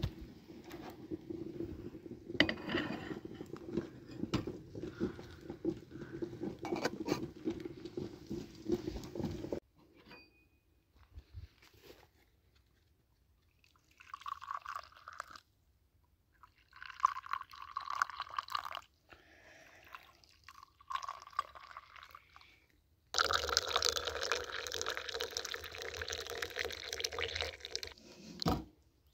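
Water pouring and dripping, in three cut-together shots: a steady stream at first, then quiet with a few short pours and trickles, then a louder rush of water near the end.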